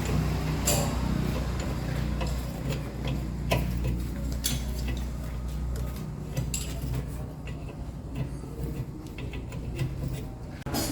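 Scattered light metallic clinks and taps, a few seconds apart, from hand tools on metal truck parts, over a steady low hum.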